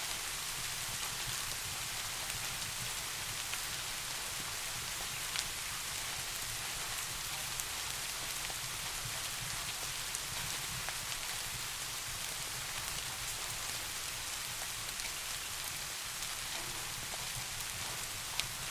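Steady rain falling in an even hiss, with a low background rumble and a couple of sharp single ticks, one about five seconds in and one near the end.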